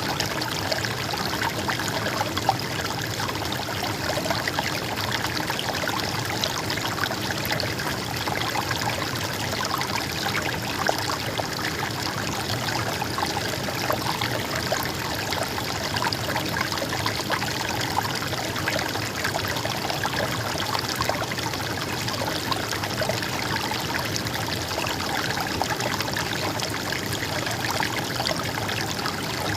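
River water trickling and flowing steadily.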